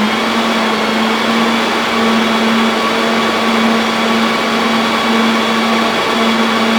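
Home server's cooling fans running steadily: a loud, even rush of air with a constant low hum-like tone and fainter higher whines.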